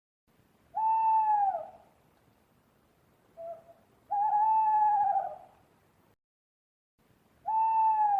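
Owl hooting: a long hoot that falls away at its end, a short note, a longer wavering hoot, then another long hoot near the end.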